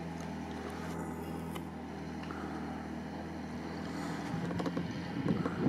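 Off-road 4x4 engine running hard under load as the vehicle climbs a steep slope, with a steady drone that grows louder near the end.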